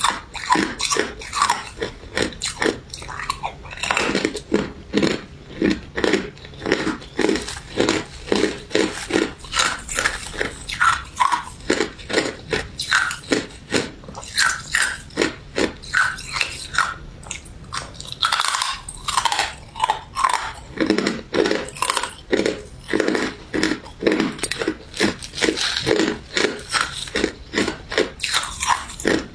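Close-up chewing and crunching of a crunchy crystal ice dessert with jelly pieces, about two to three crisp crunches a second, with a brief pause partway through.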